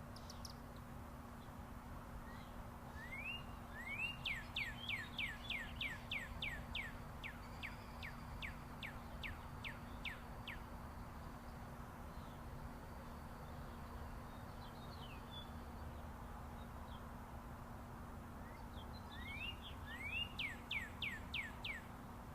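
A songbird singing two long runs of clear downslurred whistled notes, each run starting quickly and slowing toward its end, the first around seven seconds long and the second shorter near the end. Underneath is the steady distant rumble of interstate highway traffic with a faint hum.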